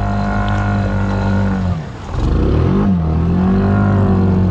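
Honda Rancher 420 ATV's single-cylinder engine running at steady throttle; about two seconds in it drops off briefly, then picks back up and holds steady again.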